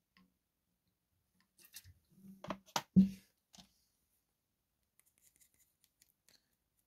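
A few light clicks and knocks of small items being handled on a workbench, the loudest about three seconds in, then only faint ticks.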